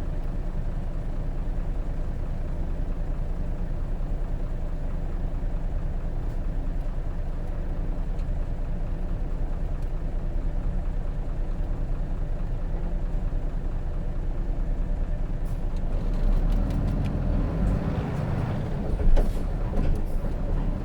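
Hino Rainbow RJ city bus's J08C inline-six diesel heard from inside the cabin, running steadily under way. In the last few seconds the sound changes, with rattles and clicks and one sharp loud noise.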